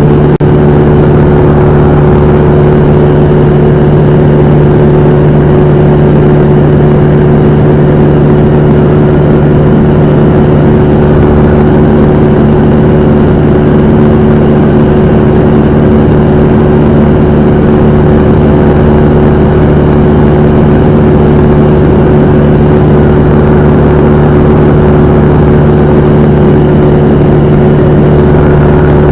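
Cessna 172M's four-cylinder Lycoming O-320 engine and propeller running at steady power: a loud, even drone with an unchanging hum.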